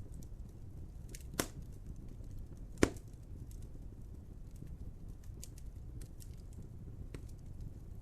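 Wood fire crackling, with a low steady rumble under scattered small snaps. Two louder pops come about a second and a half in and just under three seconds in.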